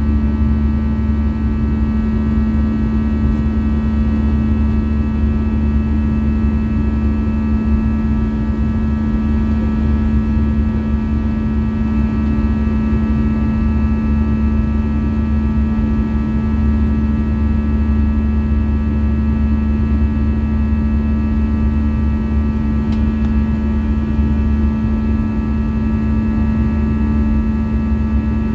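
Airbus A320 cabin noise in flight: a steady drone of the jet engines and airflow, with a steady low hum and a cluster of thin high tones that hold unchanged throughout.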